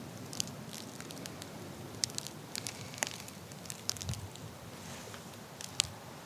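Wood fire crackling: scattered, irregular sharp pops and snaps over a steady low hiss, with one louder snap near the end.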